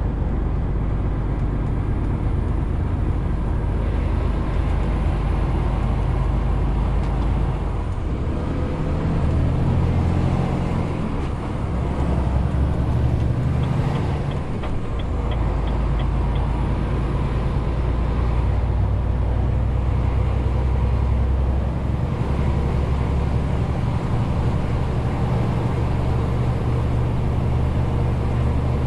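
Renault T520 truck's diesel engine running steadily while hauling a 40-tonne load. The engine note shifts for several seconds about a third of the way in, then settles back to a steady drone.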